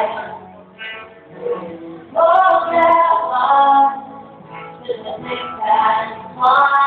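A high voice singing a melody, with long held notes a couple of seconds in and again near the end.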